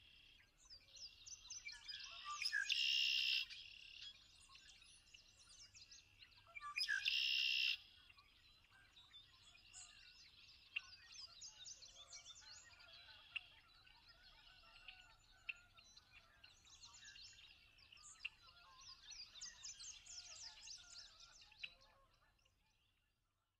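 Birds chirping and singing, many small calls overlapping, with two much louder stretches of song about three and seven seconds in. The birdsong fades out near the end.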